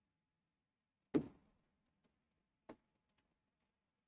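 Two short sharp taps about a second and a half apart, the first louder, from a pen striking the writing surface while a diagram is drawn.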